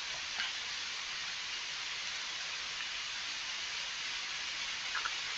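Steady hiss of recording noise with no other clear sound, apart from faint ticks about half a second in and near the end.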